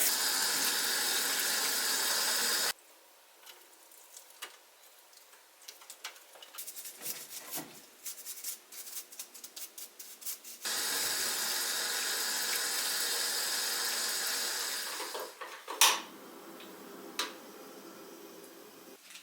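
Kitchen tap running into a sink as pine cones are washed, shut off after a few seconds. Then a spell of small clicks and knocks as the cones are handled, the tap running again for about four seconds, and a sharp knock near the end.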